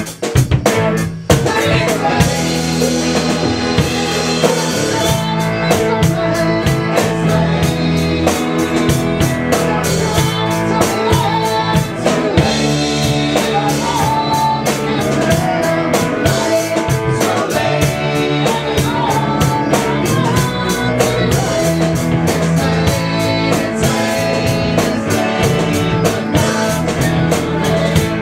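A band playing loud, continuous music on drum kit and guitar, with a steady beat of drum and rimshot hits and a short break about a second in.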